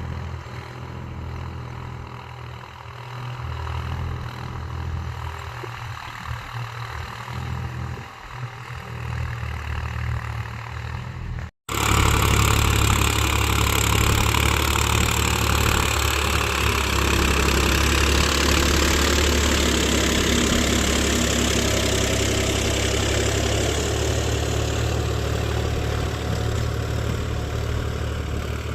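Mahindra 275 DI TU tractor's three-cylinder diesel engine running steadily. About twelve seconds in, the sound cuts out for a moment and comes back louder, the engine now joined by a rushing noise.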